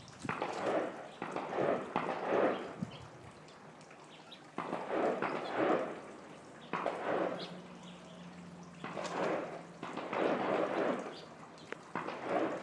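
Squirrel rummaging in a bird feeder: repeated bursts of rustling and crackling, each a second or two long, with short pauses between.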